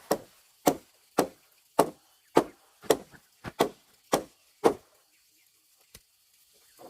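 Chopping with a blade, about ten sharp strokes at roughly two a second, stopping about five seconds in.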